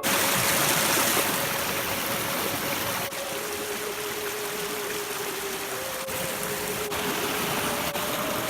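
Steady rushing of running water from a stream, with a faint steady tone in the background.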